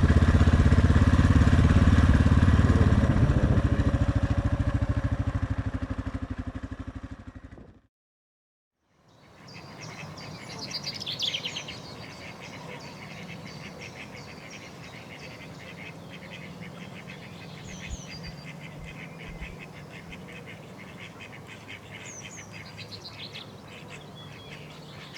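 Suzuki DR650 single-cylinder motorcycle engine running steadily, then fading out over several seconds. After a short break, birds chirp now and then over a faint steady hum.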